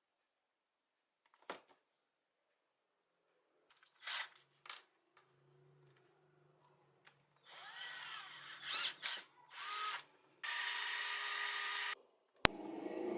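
A small electric power tool, drill-like, run in short bursts whose pitch sweeps up and down as it speeds up and slows, then held at a steady speed for about a second and a half near the end. A single sharp click follows.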